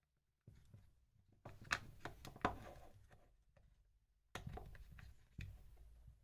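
Light clicks, taps and rattles of small plastic parts and wires being handled and pressed into a plastic power-tool housing, in short scattered bursts with a few sharper clicks.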